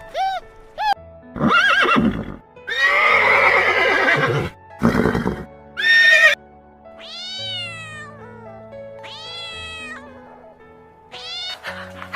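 A run of different animal calls, one after another, over background music: short calls, a loud rough call lasting about two seconds in the middle, then two long falling calls.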